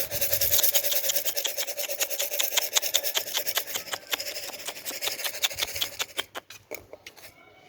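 Tin can shaken rapidly in a fast, rasping rattle, used as a call so the pigeons learn to come to its sound; the shaking dies away about six seconds in.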